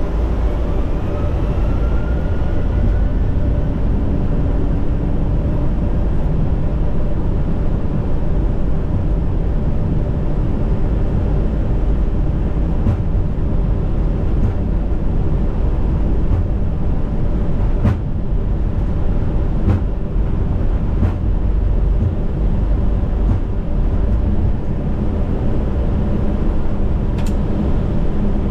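Steady rumble of a Boeing 757-200 freighter's flight deck in the climb: airflow and engine noise heard from inside the cockpit. A few faint clicks come in the second half.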